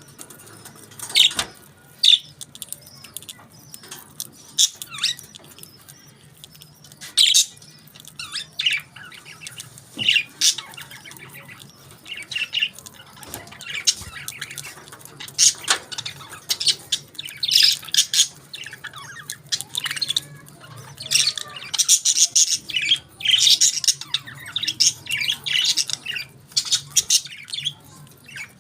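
Budgerigars chirping and squawking in quick, irregular bursts of short, high-pitched calls, busier in the second half, over a faint low hum.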